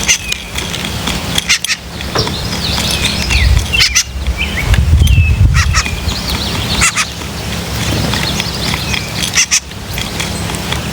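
Several birds chirping and calling in quick, short notes, with sharp clicks now and then and a low rumble underneath.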